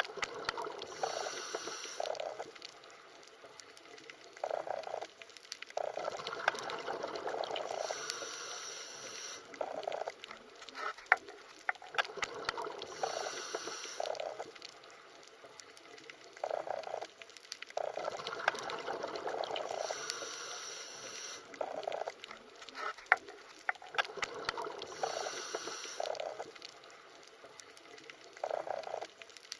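Underwater water sounds: bubbling and gurgling in bursts, with a higher hiss and scattered small clicks. The pattern repeats in a cycle about every six seconds.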